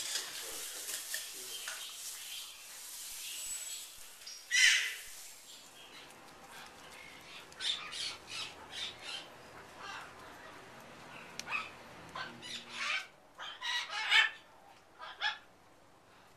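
Birds calling in short calls: one loud call about four and a half seconds in, then an irregular run of short calls through the second half, over a faint low hum.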